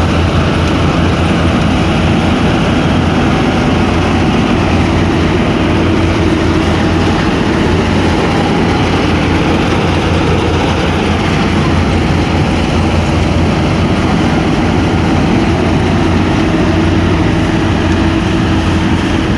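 An engine running steadily at an even speed, a low drone that holds without change.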